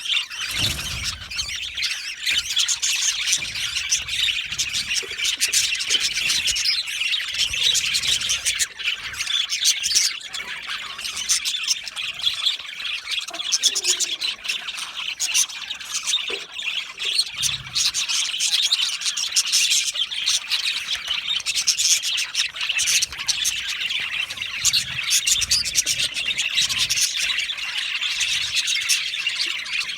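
A flock of budgerigars chirping and chattering continuously, many birds at once, in a dense, high-pitched warble.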